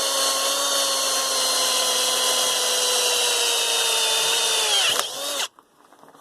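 Electric drill running steadily under load, boring a 1/4-inch bolt hole through the flattened end of 1/2-inch steel EMT tubing; its whine sags a little in pitch and then stops about five seconds in.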